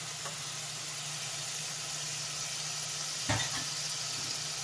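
Potato pieces sizzling in hot oil and tomato-onion masala in a pan, a steady frying hiss over a low hum, with one sharp knock, a spoon against the pan, about three seconds in.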